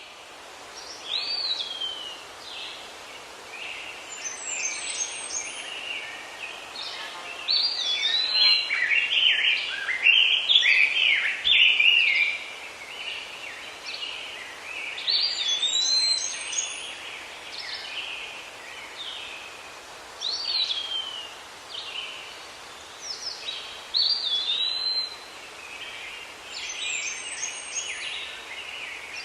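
Birdsong ambience: several birds chirping, trilling and whistling over a steady background hiss, busiest and loudest a third of the way through. It starts out of silence.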